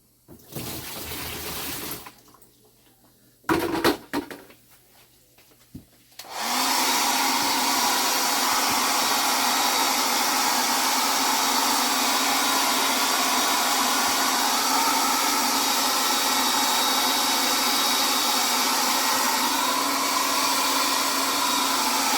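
A hair dryer switched on about six seconds in and running steadily, blowing freshly washed clock parts dry. Before it, a short hiss and a few sharp clicks of handling.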